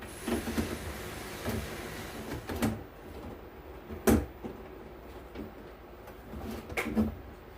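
Scattered knocks and clatter as an audio mixer's casing is handled and screwed back together, the loudest knock about four seconds in.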